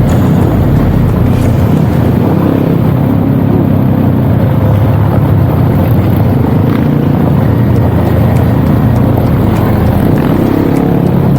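Dirt bike engine running steadily while riding, loud and close.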